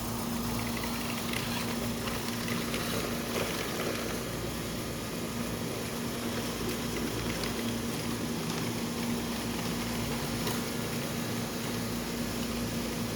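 A steady mechanical hum at one unchanging pitch over a constant whirring noise, with a few faint ticks.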